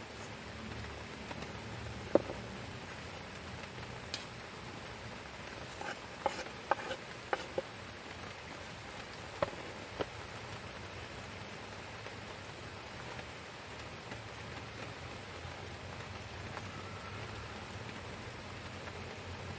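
Steady rain falling, an even patter throughout, with a scattered handful of sharp clicks or taps in the first half.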